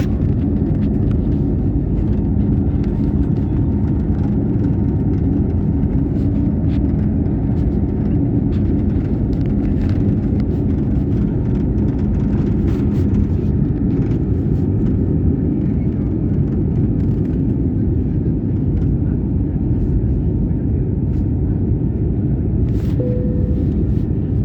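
Airliner cabin noise during takeoff: the jet engines and airflow make a loud, steady low rumble, with a low hum that fades about halfway through and a short tone near the end.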